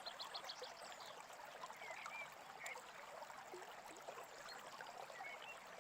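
Faint, steady babbling of a small stream, with a few short bird chirps scattered through it.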